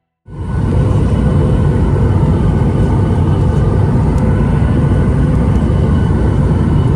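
Airliner cabin noise: the engines and airflow running loud and steady, with a faint steady hum in it, cutting in abruptly right at the start.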